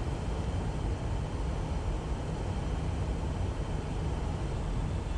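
Steady low rumble of cockpit noise, engines and airflow, in a Lockheed C-5 Galaxy flying an approach, heard between radio calls.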